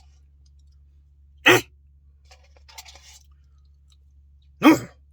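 Two short, loud throat sounds from a person, about three seconds apart, with faint clicks of eating between them.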